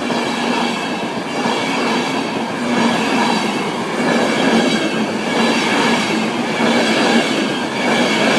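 Virgin Trains East Coast InterCity 225, a Class 91 electric locomotive with its coaches and driving van trailer 82209, passing over the level crossing: a loud, steady rush of wheels on the rails.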